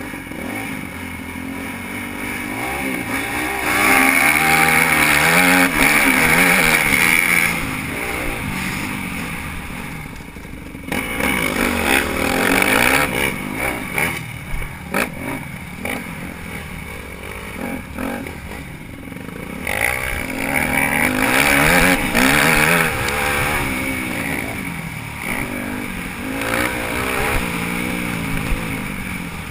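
Dirt bike engine being ridden around a motocross track, revving up hard and backing off again and again as the rider accelerates and shuts off. Its pitch climbs and drops repeatedly, with the loudest pulls about 4, 12 and 20 seconds in.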